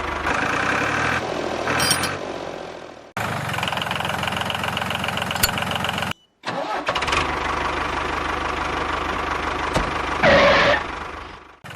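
A DIY mini tractor running with a steady engine-like mechanical sound, broken off abruptly by edits about three and six seconds in. A short high-pitched gliding sound comes about ten seconds in.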